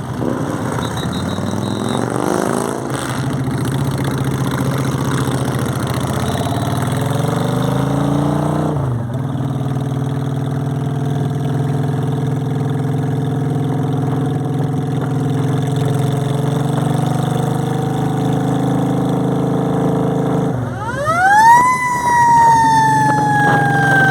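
Motorcycle engines revving and running. About three-quarters of the way through, a siren winds up fast and then wails slowly downward.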